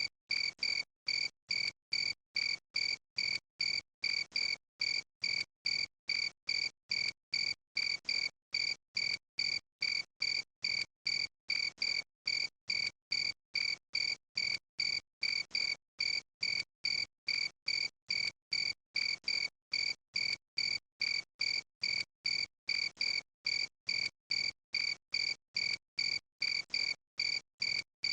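Cricket chirping in a steady, unchanging rhythm of about two chirps a second, each chirp a short, clear, high-pitched tone.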